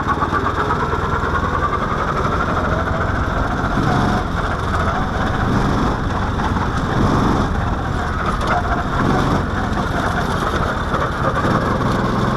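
Mini-Baja off-road car's single-cylinder engine running under way, its pitch rising and falling with the throttle.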